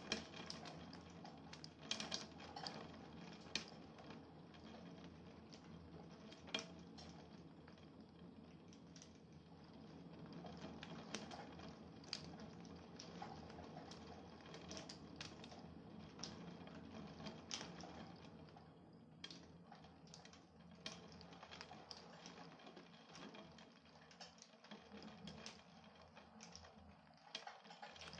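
Faint rain in a thunderstorm: irregular ticks of drops striking a hard surface over a soft steady hiss.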